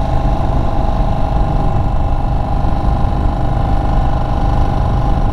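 Indian Chief Bobber Dark Horse's V-twin engine running steadily at cruising speed, with low wind rumble.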